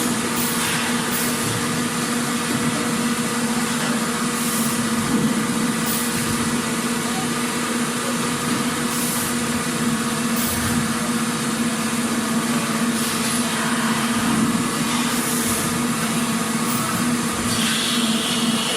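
Factory machinery ambience: a steady mechanical hum with a constant low tone, broken every few seconds by short hisses.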